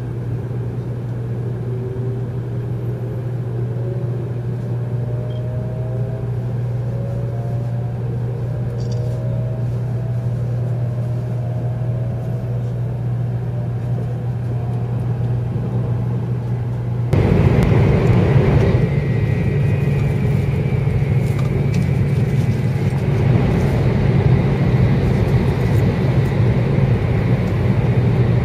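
Inside the cabin of an N700 series Shinkansen pulling away: a steady running rumble with the traction motors' whine rising in pitch as the train speeds up. About 17 seconds in the noise jumps suddenly louder and rougher as the train runs into a tunnel.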